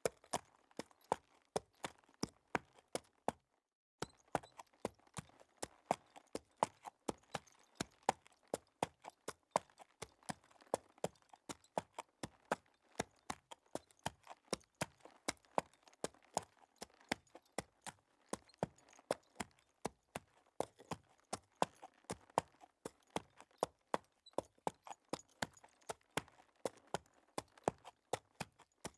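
Hoofbeats sound effect: the steady clip-clop of a walking horse, about four hoof strikes a second, broken once by a short dead gap about three and a half seconds in.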